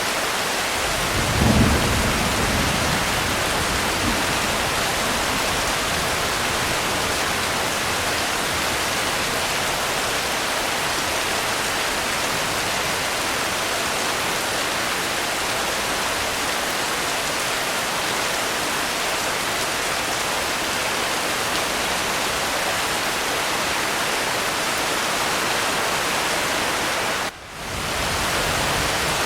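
Steady rain hiss, with a low roll of thunder about a second and a half in that fades over a couple of seconds. Near the end the rain briefly drops out and comes back.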